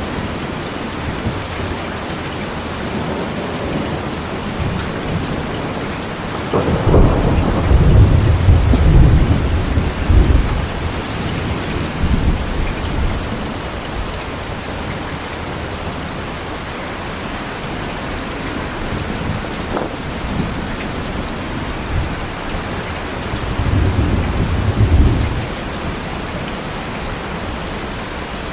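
Steady rain falling throughout, with thunder rumbling twice: a long, loud, low roll starting about a quarter of the way in and lasting several seconds, and a shorter, softer one near the end.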